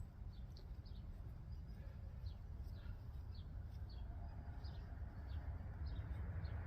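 Small birds chirping repeatedly: short, high, falling chirps about twice a second, over a steady low rumble.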